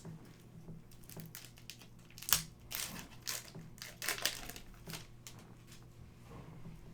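Plastic trading-card pack wrapper crinkling and crackling as it is handled and opened, a burst of crackles with the loudest about two seconds in.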